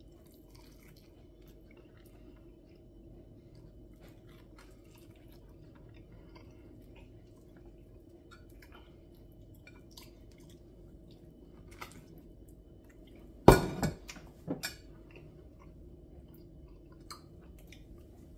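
Soft chewing and mouth sounds of a man eating a sauced pork rib, with faint small clicks over a steady low hum. Two loud clatters, like something set down hard on a plate, come about thirteen and a half seconds in, the second a second later.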